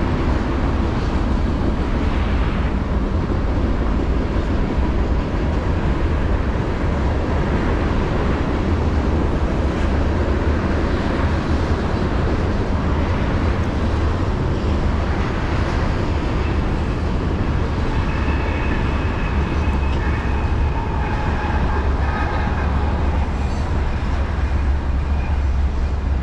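BNSF manifest freight train rolling past a grade crossing, a steady low rumble of cars going by, heard from inside a car. High steady tones join in for several seconds in the second half.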